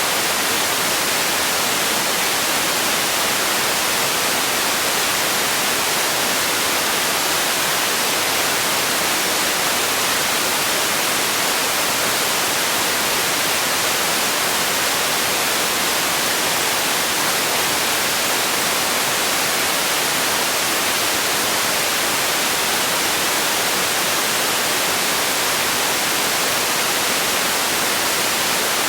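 Steady white noise: an even, unchanging hiss, brightest in the treble with little bass, played as a sleep and relaxation sound.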